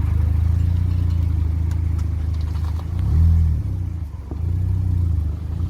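Car engine running with a steady low drone, swelling twice: once about three seconds in and again near the end.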